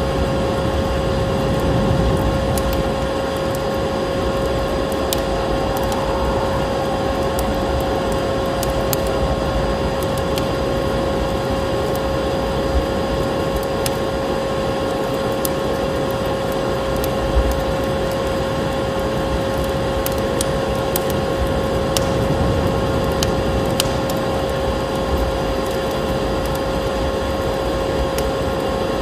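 Vacuum cleaner running steadily with a constant whine, layered with a crackling wood fire whose pops and snaps come at scattered moments.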